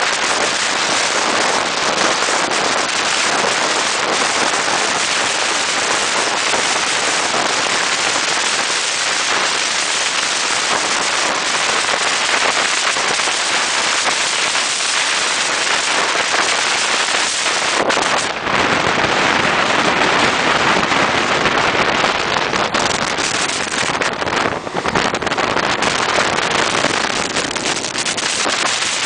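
Steady loud rushing noise of a passenger train running at speed, heard from the open door of a coach: wind on the microphone over the run of the wheels on the rails. The rush briefly dips about eighteen seconds in and then turns hissier.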